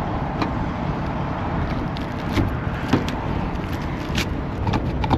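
A semi truck's engine running with steady low rumble as the truck moves, with scattered short clicks and rattles.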